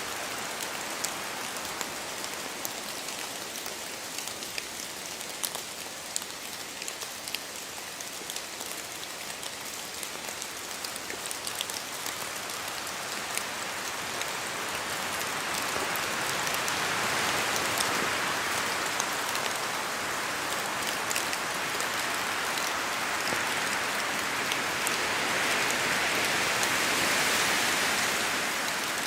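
Steady rain in a forest, a constant hiss with many separate drops pattering down from the trees. The hiss swells louder about halfway through and again near the end, as the wind rises in the trees.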